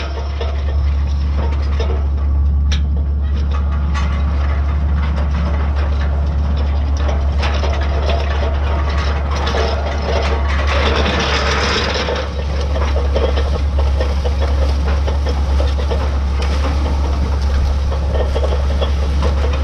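White 2-150 tractor's diesel engine running steadily while pulling a disk, a constant low drone with machine noise over it, louder for a moment a little past halfway.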